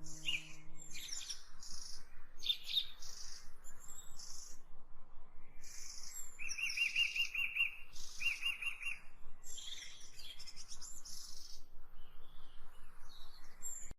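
Several songbirds chirping and calling, with a rapid trilled call twice in the middle; a low held tone fades out about a second in.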